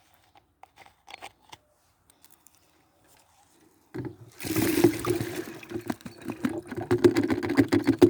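Light handling clicks, then about four seconds in, birch sap pours out of its collection container in a steady gush.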